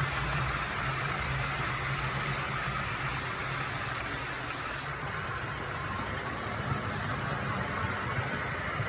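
HO-scale model train running along the layout track: a steady low motor hum over the rolling hiss of wheels on rail, the hum weakening midway and returning near the end.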